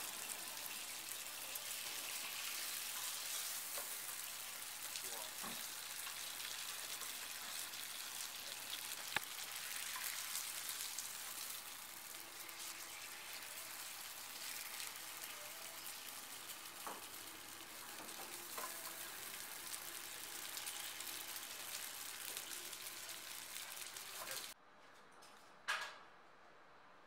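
Roti pastry sizzling steadily as it fries in oil in a frying pan, with a few faint clicks. The sizzling cuts off suddenly near the end, and a single short knock follows.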